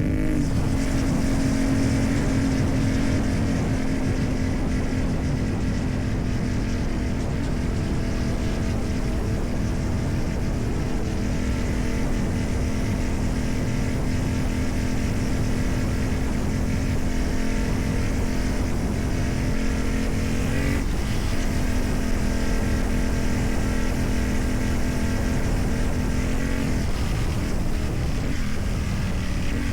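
CFMoto 450MT's parallel-twin engine running through its modified exhaust under way, held at a steady pitch for long stretches. The revs briefly change about two-thirds of the way through and fall near the end.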